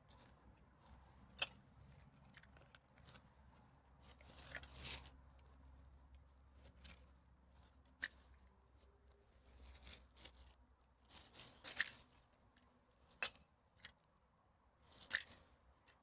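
Rubbish being gathered in a forest clean-up: quiet, irregular rustles and crinkles of litter and bag, with a few sharp clicks.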